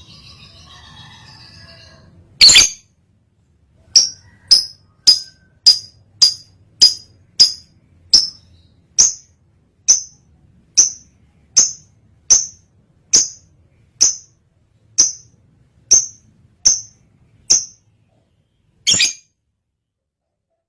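Lovebird in breeding condition calling. A loud harsh screech, then a long run of short, sharp, high chirps at about two a second that slows slightly, and another screech near the end.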